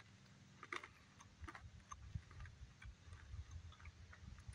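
Faint, irregular crunching clicks of someone chewing a bite of crunchy nut-and-seed brittle.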